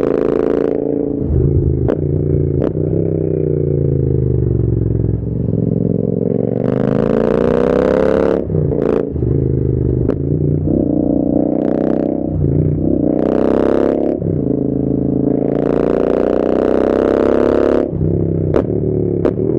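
Royal Enfield Interceptor 650's parallel-twin engine running through an AEW te101 aftermarket exhaust as the bike is ridden. The pitch falls as the throttle closes and climbs again under acceleration several times, with added hiss on each climb and a few sharp clicks.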